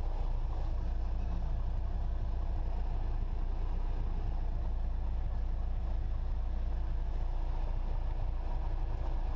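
Cessna 172SP's four-cylinder Lycoming engine and propeller idling steadily, a low even drone heard inside the cockpit.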